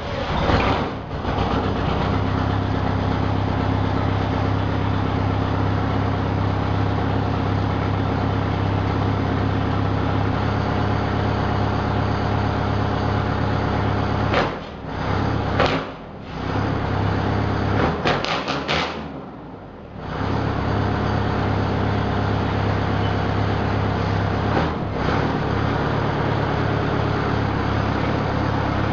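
Straight-piped Detroit Diesel 8V71 two-stroke V8 diesel running loud and steady, with several short dips in level about halfway through.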